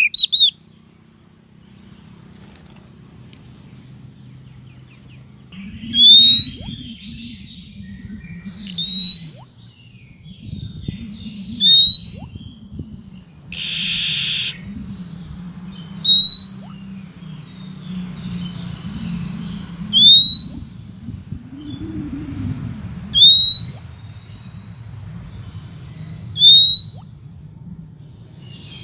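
Female oriental magpie-robin lure call: a single short, loud rising whistle repeated about every three to four seconds, with one harsh hissing note about halfway through. A low hum runs underneath.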